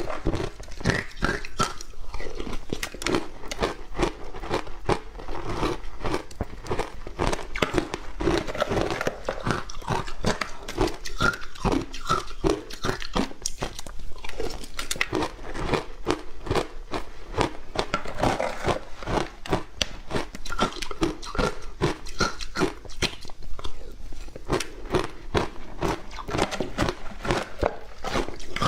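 Close-miked biting and chewing of crunchy ice, a dense run of sharp crunches and cracks with wetter chewing between bites.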